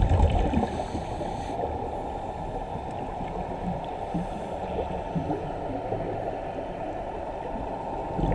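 Steady, muffled rushing and gurgling of water.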